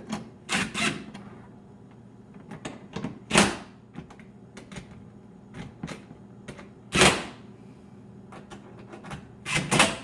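Hand-work noises while fastening a refrigerator's rear cover panel: a few short clattering, scraping knocks of a driver and screws against the panel, about four louder ones spread over the stretch with quieter handling between.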